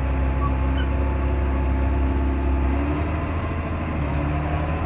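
Diesel engine of farm harvest machinery idling with a steady low hum. Its tone shifts slightly about three seconds in.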